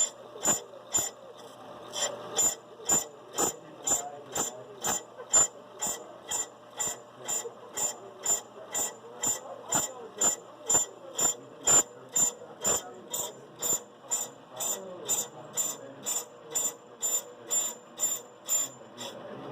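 Brake lathe cutting a brake drum, with sharp, evenly spaced clicks about twice a second as the drum turns against the cutting bit. The clicks stop suddenly near the end.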